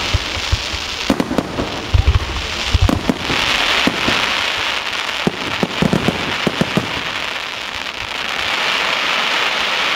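Fireworks display: shells bursting with a run of sharp bangs and a few deep booms, then a dense hissing crackle of crackling stars swelling toward the end.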